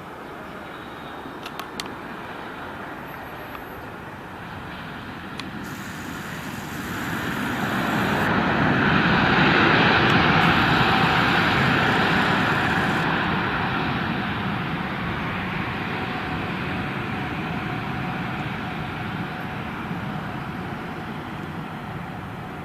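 Jet noise from an Emirates Airbus A380's four engines as the airliner passes low on its landing. It swells to a loud peak about ten seconds in and then slowly fades.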